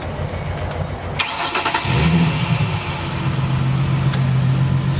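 Ford Mustang's engine being started: a click and a brief crank about a second in, then the engine catches with a short rise in revs and settles into a steady idle.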